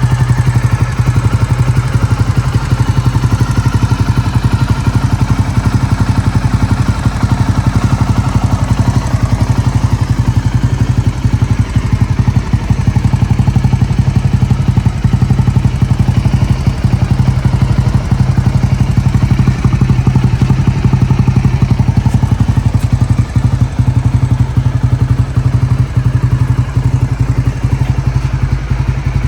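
Honda GB250 Clubman's air-cooled single-cylinder four-stroke engine idling steadily, with a fast, even exhaust beat.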